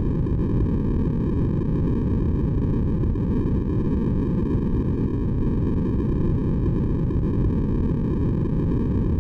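Steady synthetic white-noise track for sleep, deep and low with most of its energy in the bass, running unchanged.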